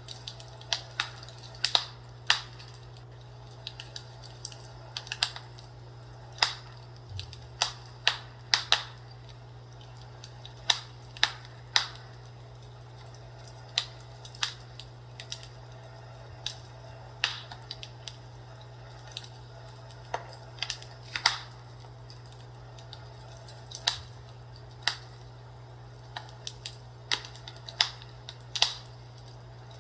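Fireplace crackling: irregular sharp pops and snaps of burning wood, some close together and some a second or more apart, over a steady low hum.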